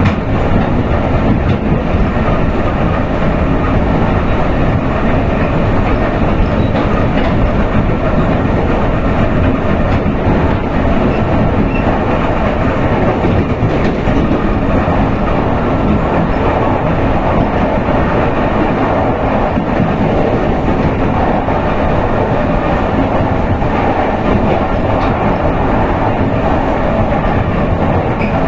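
Electric suburban train running at speed, heard from inside the carriage: a steady, loud rumble of wheels on the rails.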